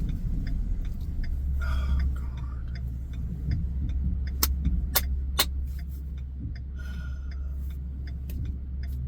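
Steady low rumble of a motor vehicle running, with a light regular ticking and three sharp clicks about halfway through.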